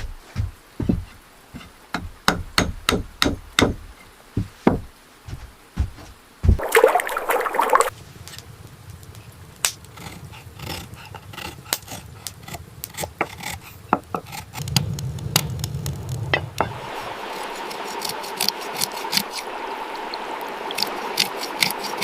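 A run of sharp hammer knocks, about two a second, for the first six seconds. Then water splashes out in a short loud burst and keeps pouring and trickling, with scattered clicks and knocks.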